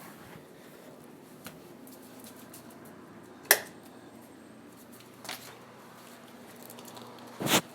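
A few separate sharp clicks and taps over quiet room tone. The loudest comes about three and a half seconds in, and a louder cluster comes near the end.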